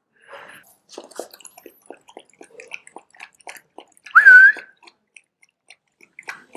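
Plum-headed parakeet giving one short, loud whistled call that dips and rises, a little after four seconds in, preceded by a few seconds of light clicks and taps.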